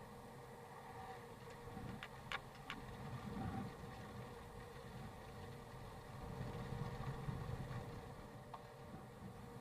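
Faint low rumble of a distant vehicle, swelling twice, with a few light clicks about two seconds in.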